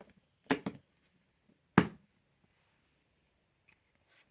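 Jigsaw puzzle pieces being handled and set down: a few short knocks and taps, a close pair about half a second in and the loudest single knock near two seconds in, with faint ticks near the end.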